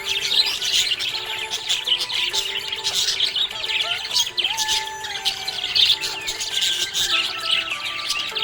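Budgerigar chirping and warbling in a rapid, continuous stream of high twitters, over background music of held notes.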